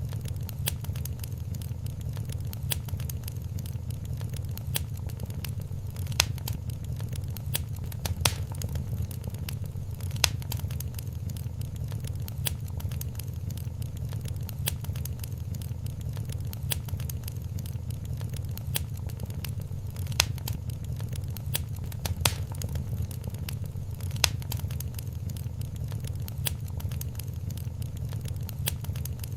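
Wood fire in a fireplace crackling: a steady patter of small snaps with a few louder pops, over a constant low rumble.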